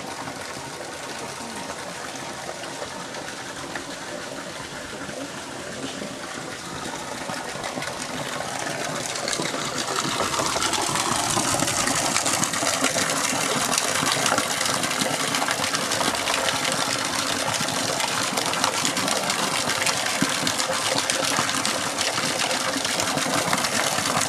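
Rushing water of a waterfall, a steady noise that grows louder between about six and ten seconds in and then holds.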